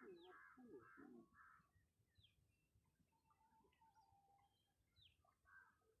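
Near silence with faint outdoor bird calls: a few harsh calls in the first second and a half, then scattered short, quick falling chirps.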